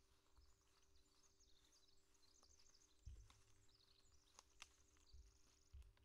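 Faint birdsong: a small songbird's quick high chirps and short trills, with a few low thumps and sharp clicks.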